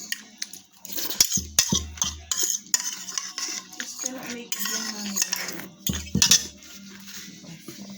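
Cutlery clinking, tapping and scraping against dishes, in many short irregular knocks and scrapes.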